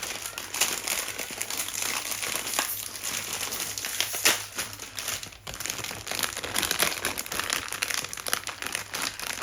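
Continuous crinkling and crumpling, like something crinkly being handled or squeezed, with a short break about five and a half seconds in.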